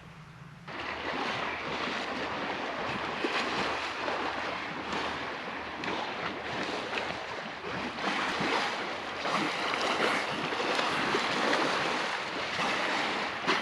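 Steady rush of wind and water, with wind buffeting the microphone, beginning under a second in after a brief lull.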